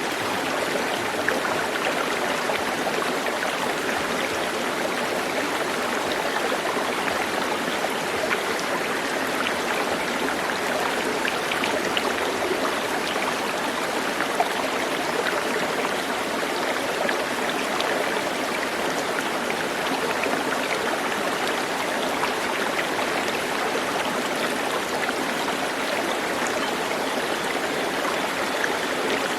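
Steady rushing of flowing water, like a stream, running evenly without pause.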